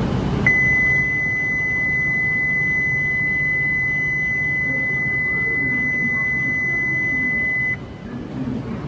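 A single steady high electronic tone, held for about seven seconds before cutting off suddenly, over a low train rumble: a Shinkansen platform's departure buzzer.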